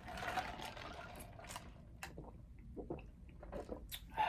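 Quiet, wet mouth sounds of eating chicken wings close to the microphone: soft chewing with small smacks and clicks.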